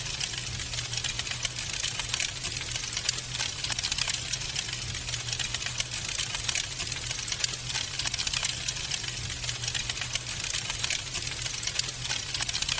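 Wood fire crackling in a fireplace: a steady stream of fast little crackles with a few sharper pops, over a low steady hum.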